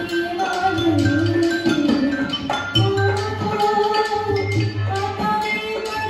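Rajasthani folk music: a melody over a hand drum played in quick strokes, with deep drum thumps recurring every second or two.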